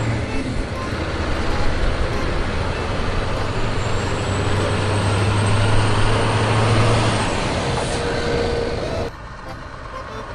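Truck engine sound: a loud, noisy running roar with a steady low hum, dropping off suddenly about nine seconds in.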